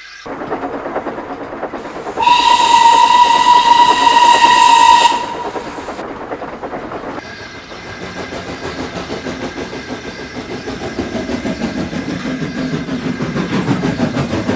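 A train running on rails, with a single steady locomotive whistle blast of about three seconds starting about two seconds in. The running noise grows louder toward the end.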